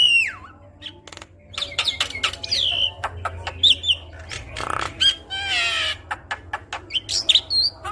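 Javan myna (jalak kebo) singing energetically through its varied repertoire: quick sliding whistles, sharp clicks and harsh rasping calls tumbling one after another.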